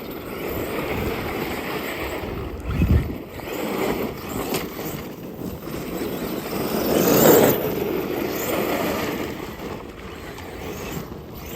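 Arrma Outcast 8S RC monster truck being driven over wet snow and gravel, its motor and tyres surging and fading, with the strongest burst about seven seconds in.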